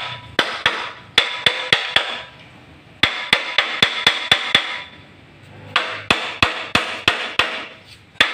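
Hammer blows on metal parts of a small water-pump engine being dismantled: three bursts of six to eight quick strikes, about four a second, each strike ringing, with short pauses between bursts.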